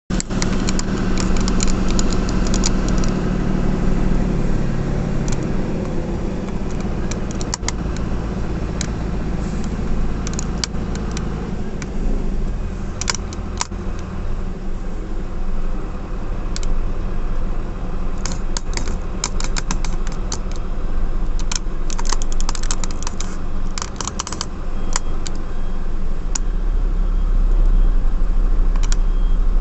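B-double truck's diesel engine running steadily while the truck reverses, with scattered sharp clicks and rattles over it. The engine grows louder from about four seconds before the end.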